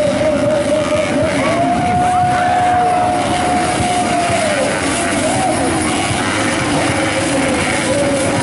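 Modified underbone motorcycle engines running and revving. One engine note holds steady, rises about two seconds in, and drops back about four and a half seconds in, while other engine notes glide up and down underneath.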